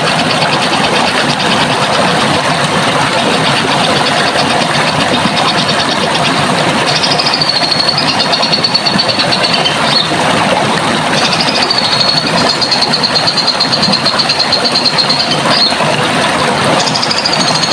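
Running water rushing steadily. From about seven seconds in, a bird sings long, high trilled phrases, each starting a little higher and settling to a steady pitch.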